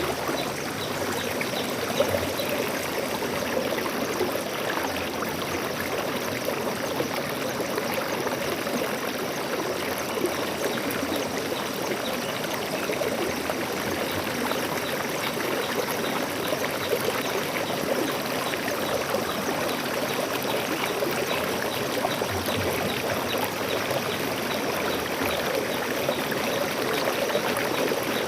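Stream water flowing and splashing steadily, a dense, even rush of trickles and pours.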